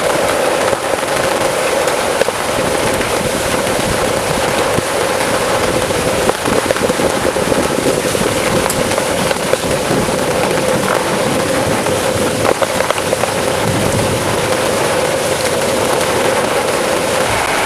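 Heavy rain pelting down steadily: a loud, dense hiss full of crackling drop impacts on a surface close to the microphone.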